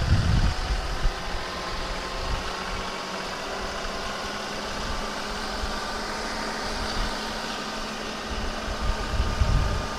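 John Deere 2038R compact tractor's three-cylinder diesel engine running steadily, with wind buffeting the microphone at the start and again near the end.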